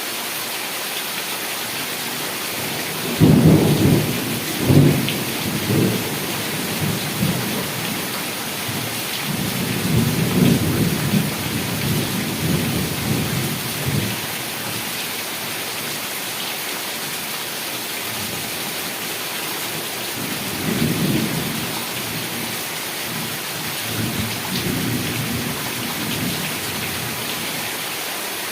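Heavy rain falling steadily, with rolls of thunder: a sudden loud peal about three seconds in, a longer rumble in the middle, and softer rumbles near the end.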